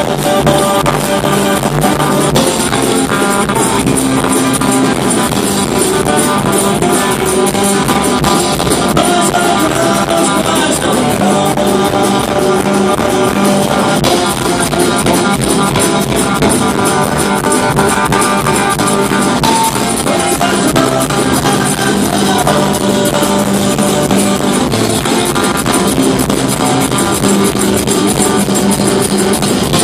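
Live band playing an instrumental break: guitars and drum kit, with no singing.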